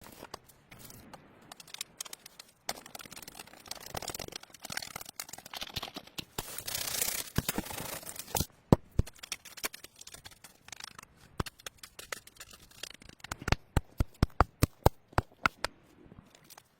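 Scraping and rustling, like material being cut or torn, followed by a quick run of sharp knocks or taps, about four a second, near the end.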